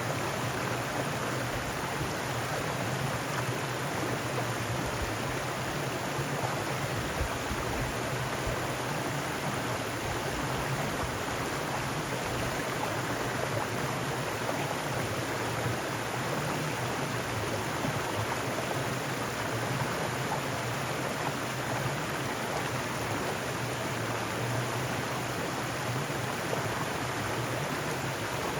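Mountain stream flowing over rocks, a steady rush of water.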